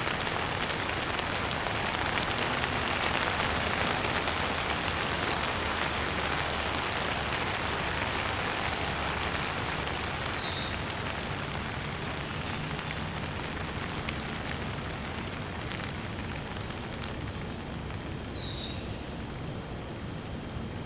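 Steady rain falling, a dense patter of drops that eases a little over the second half. A bird gives a short chirp twice, about halfway through and again near the end.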